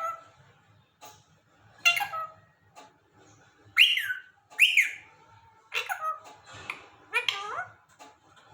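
Indian ringneck parakeet giving a series of short whistled calls and squawks, about six of them, several sliding sharply up or down in pitch.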